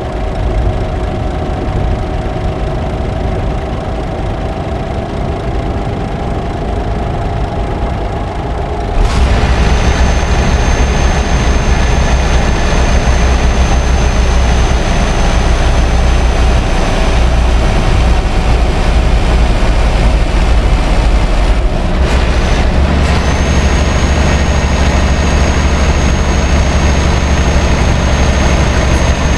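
Scania R560's V8 diesel engine running steadily while the truck is hauling a heavy load. About nine seconds in, the sound abruptly becomes louder and rougher, with a thin high whine, and it dips briefly near the end.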